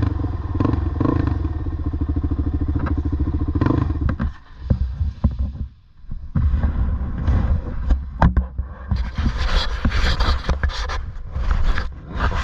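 An off-road motorcycle or ATV engine runs steadily with a fast even beat, then falls away about four seconds in. Irregular scraping and clattering noises follow, getting busier near the end.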